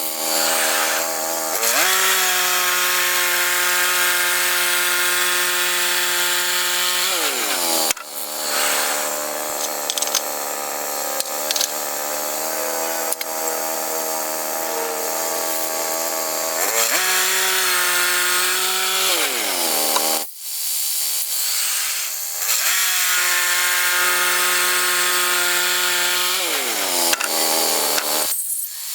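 Woodland Mills HM122 bandsaw mill's gas engine running under load while sawing a log. It revs up and holds steady, then drops back in pitch, three times over.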